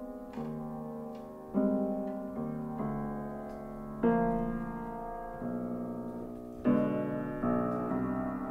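Slow piano music: chords struck one after another, each ringing and fading, with a louder chord about every two and a half seconds.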